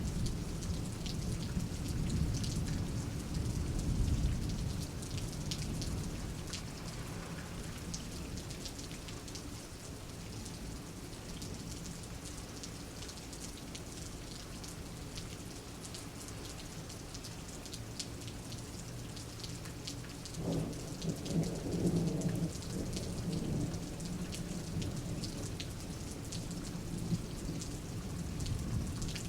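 Steady rain falling during a thunderstorm, with many small drop ticks. Low thunder rumbles and dies away over the first several seconds. About two-thirds of the way through, a sharper thunderclap breaks and rumbles on for a few seconds.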